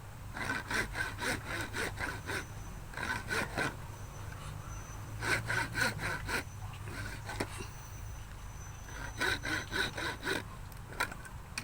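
Hand saw cutting in four bursts of quick back-and-forth strokes, about four strokes a second, with short pauses between bursts.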